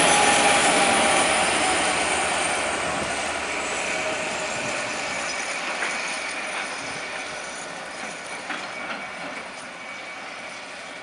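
Class 69 diesel locomotive running light and moving away, its sound fading steadily. There is a thin high wheel squeal early on, and a few sharp clicks of wheels over rail joints later.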